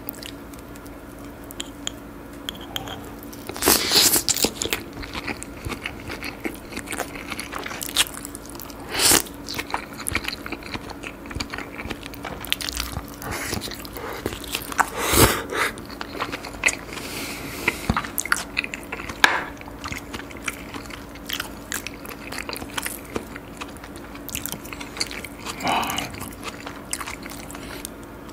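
Close-miked chewing and biting of raw fish, salmon sushi and then firm flounder sashimi, with crisp crunches and wet mouth sounds and a few louder bites. A faint steady hum runs underneath.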